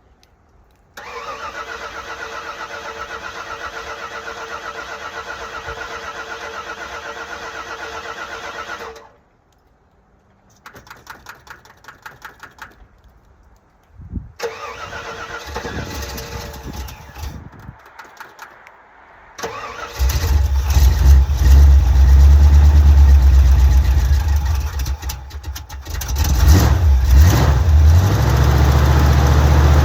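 Starter cranking the cold 327 V8 of a 1979 Camaro Z28 for about eight seconds, a pause, brief bursts, then more cranking until the engine catches about twenty seconds in. It then runs loud with uneven revs, a cold start after long sitting, fuel primed by pumping the accelerator.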